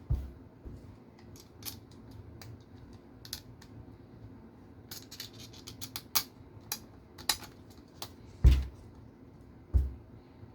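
Scattered small clicks and taps of tools, screws and parts of an RC car chassis being handled on a workbench. Three dull knocks come near the start, about eight and a half seconds in (the loudest) and shortly after that.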